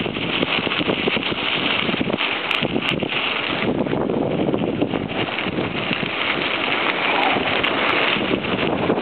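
Wind buffeting the camera's microphone while riding a mountain bike, over a steady rough crackling of the bike rolling on a dirt track.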